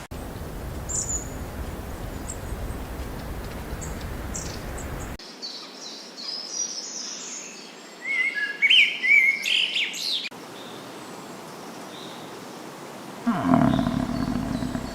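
Birds chirping and calling in quick, gliding notes, loudest in a busy stretch of song in the middle, over outdoor background noise. Near the end a lower-pitched animal call starts suddenly and falls a little in pitch.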